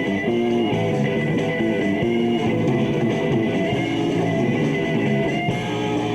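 Live rock band playing an instrumental passage, electric guitars to the fore over bass guitar. The notes keep changing, then settle into a held chord near the end.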